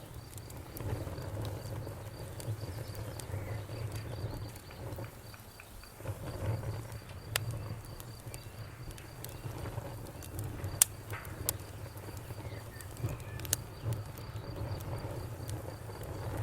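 Wood fire crackling in a fireplace: scattered sharp pops and snaps over a low, uneven rumble of the flames, the loudest pop about eleven seconds in.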